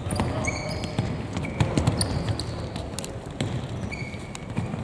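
Football match in play: irregular knocks of the ball being kicked and players' footfalls, with a few short high-pitched squeaks.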